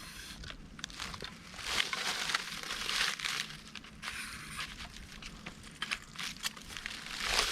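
Scattered rustling and crackling with many small clicks, and a louder rustle near the end.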